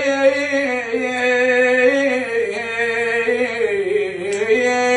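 A man singing unaccompanied in the Iraqi 'tawr Alwani' style, drawing out long held notes on a wordless vowel. The line dips lower near the end and then rises back to the held pitch.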